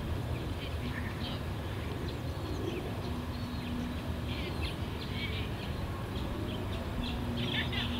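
Small birds chirping and twittering over a steady low outdoor rumble, the chirps coming thicker about halfway through and near the end. A faint steady hum comes in about three seconds in.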